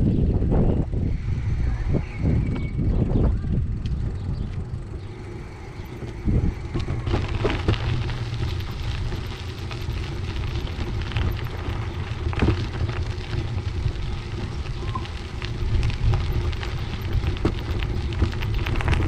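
Wind rumbling on the microphone of a camera carried on a moving bicycle, with tyre noise and many small clicks and rattles from the bike, thicker from about seven seconds in.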